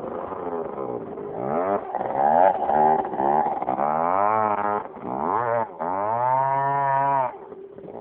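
Suzuki DS80 dirt bike's small two-stroke single-cylinder engine revving up and down again and again, its pitch rising and falling. About six seconds in it holds a steady high rev for a second or so, then drops off suddenly.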